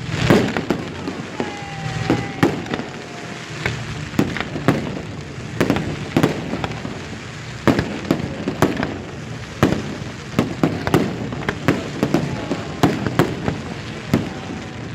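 Fireworks display: a steady run of loud, irregular bangs, several every second or two, over continuous crackling.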